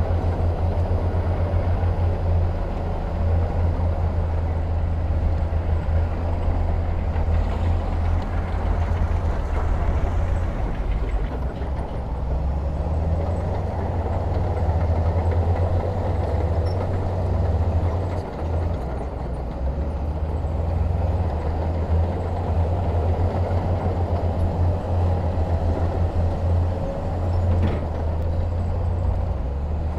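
Heavy diesel engine of earthmoving machinery running steadily, a deep rumble with a slight dip in level now and then.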